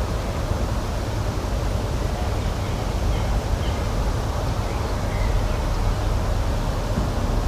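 Outdoor spring nature ambience: a steady low noise bed with a few faint, brief bird chirps about three and five seconds in.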